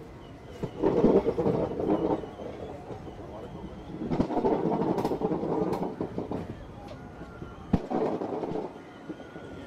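Train running, heard from the window of a moving carriage: a steady rumble that swells loud three times, with one sharp knock nearly eight seconds in.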